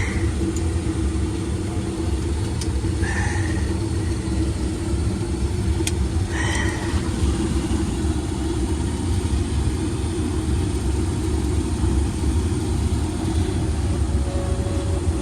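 Failing draft inducer motor on a Carrier gas furnace running with a loud, steady rumble and a steady hum, with a short high squeak about every three seconds: the inducer is worn out and needs replacing. It sounds like trash.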